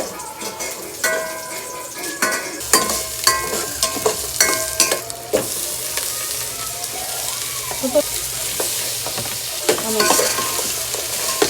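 Food frying in a metal pan, stirred with a utensil that knocks and scrapes against it; each knock rings briefly. After about five seconds the sizzle becomes a steadier, louder hiss.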